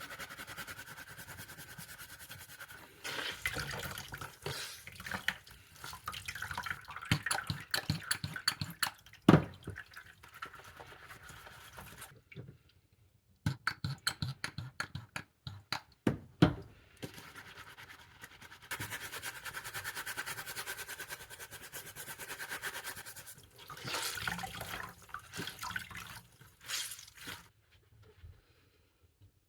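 Water running from a tap while a goalkeeper glove is rubbed and scrubbed, in several spells with short pauses and a few knocks.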